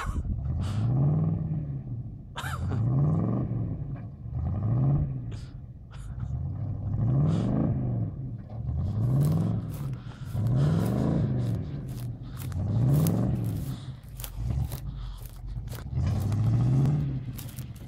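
1982 Chevrolet K10 pickup's engine revving up and falling back again and again, about eight times, as the truck sits stuck in a deep mud hole and the driver tries to rock it free.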